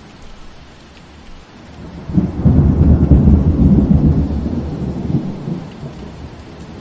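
Thunder rumbling over steady rain. The low rumble swells suddenly about two seconds in, stays loud for a few seconds, then fades away, leaving the rain.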